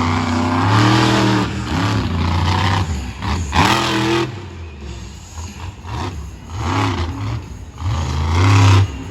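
Monster truck engine revving in repeated bursts, its pitch rising and falling with each surge. The last and loudest rev, near the end, cuts off abruptly.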